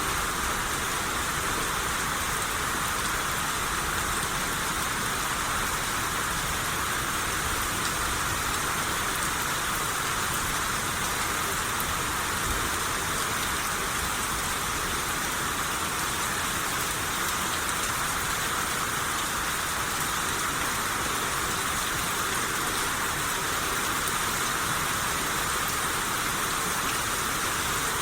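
Steady rain shower falling on a surface, an even hiss with fine patter of drops, unchanging throughout.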